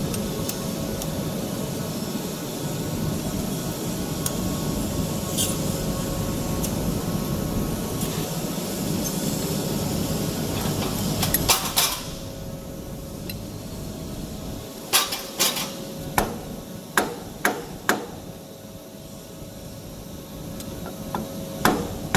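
Tissue-paper rewinder machine running steadily, then stopping with a few clicks about halfway through. After a pause, a series of about six sharp metal knocks, like hammer taps on the machine's steel parts, with two more near the end.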